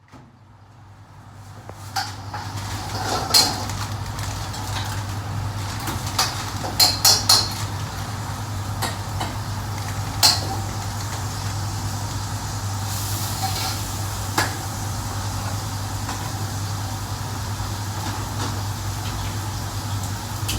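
Kitchen clatter of metal pots, pans and utensils being handled and knocked together, with a quick run of three clanks about seven seconds in and single sharp clanks around three and a half and ten seconds in, over a steady low hum. The sound fades in over the first two seconds.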